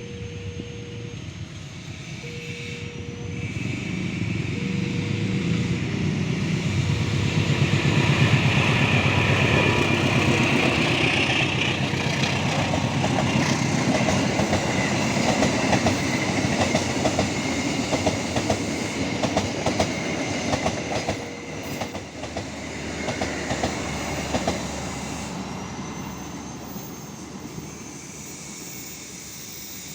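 A train passing close by: its rumble builds to a peak, then its wheels clack rapidly over the rail joints before the sound fades away.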